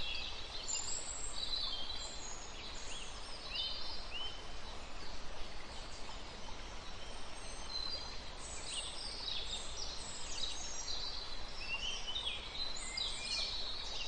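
Songbirds chirping and twittering, many short overlapping calls with quick pitch glides, over a steady low hiss.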